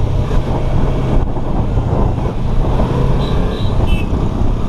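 Yamaha R3's parallel-twin engine running steadily as the motorcycle is ridden, with road and wind noise.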